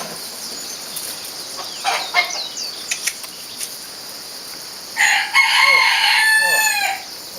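Rooster crowing once, a single long call about five seconds in that drops at its end, over a steady chorus of crickets.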